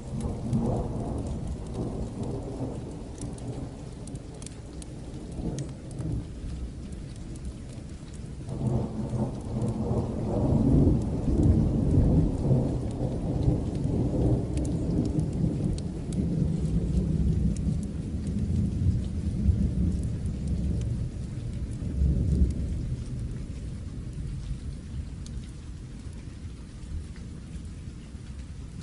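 Steady rain falling, with two long rolls of thunder. The first starts right away and fades within a few seconds; the second, louder and longer, builds from about eight seconds in and rumbles down over the next fifteen seconds.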